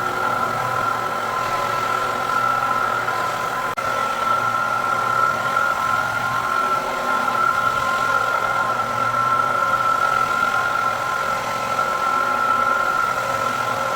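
Electric motor of floor-refinishing equipment running steadily, a hum with a high whine, broken by a short dropout a few seconds in.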